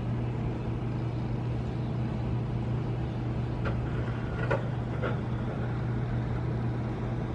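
Steady low machine hum with an even rushing noise, and a few faint ticks about midway.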